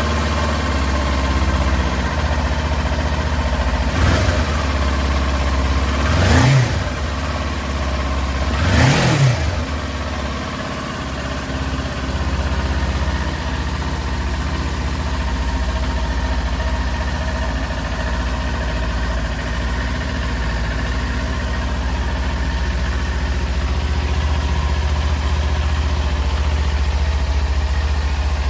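2018 Kawasaki Ninja 400's parallel-twin engine idling, blipped three times on the throttle in the first ten seconds (the last two higher) before settling back to a steady idle.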